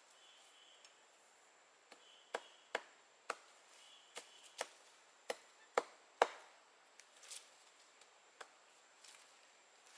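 Chopping wood with a blade: about a dozen sharp, irregularly spaced strikes, the heaviest near the middle, ending with a few lighter taps.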